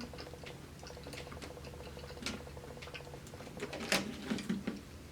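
Close-miked eating sounds: chewing with many small wet mouth clicks, a couple of short low chewing noises about four seconds in.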